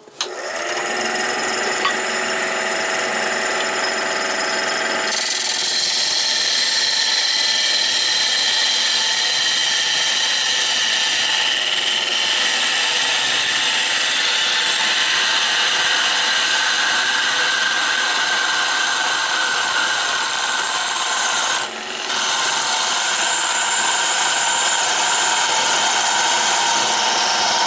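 Wood lathe running with a turning tool cutting into the spinning wood to form a shoulder beside the tenon. The motor hum is heard alone at first; the louder scraping of the tool on wood comes in about five seconds in and pauses briefly near the end when the tool is lifted.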